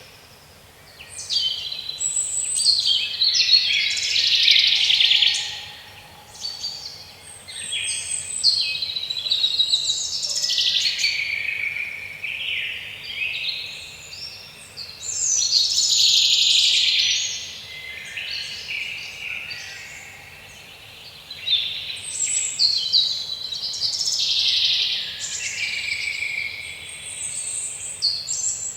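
Several songbirds singing and chirping together, dense overlapping high trills and calls that swell and ease every few seconds.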